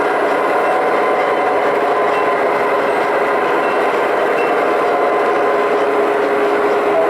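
O scale model train running on its track: a steady rolling and mechanical noise with a few held tones underneath.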